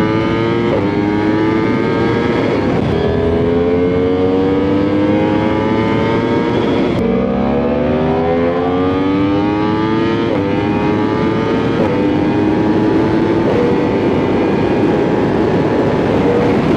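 Sport bike engine accelerating hard through the gears: the pitch climbs and drops back sharply at each shift, about six times.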